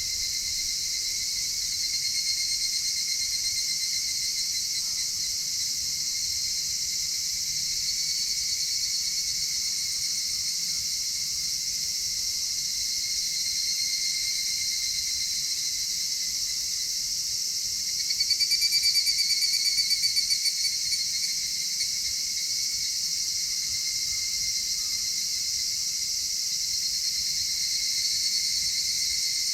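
Dense steady chorus of singing insects such as crickets, chirring in several high overlapping tones. A little past halfway, one nearby insect sings a louder pulsing trill for about three seconds.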